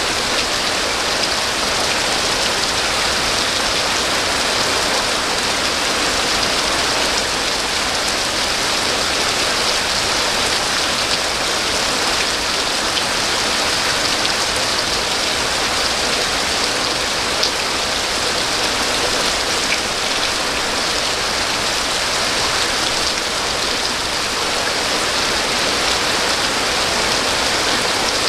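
Rain falling steadily, an even hiss of drops with an occasional single louder drop.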